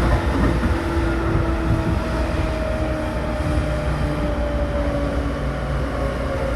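Running sound inside a Seibu New 2000 series commuter train car: a steady rumble of wheels on rail with motor and gear whine, its tones drifting slowly down in pitch as the train slows.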